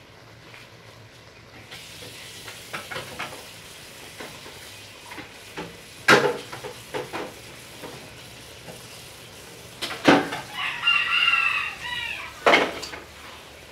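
Chopped banana heart frying in a wok with a steady sizzle that starts about two seconds in. A rooster crows once, about ten and a half seconds in, and a few short loud calls or knocks stand out around six, ten and twelve and a half seconds.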